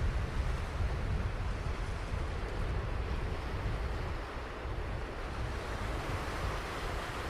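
Ocean surf washing on a beach: a continuous rush of breaking waves with a deep rumble, the hiss swelling a little near the end, and wind buffeting the microphone.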